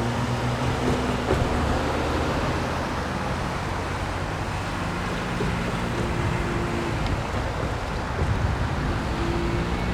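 Excursion train rolling past on the rails: a steady rush of wheel and rail noise under the low, even drone of the EMD GP30 diesel locomotive's engine.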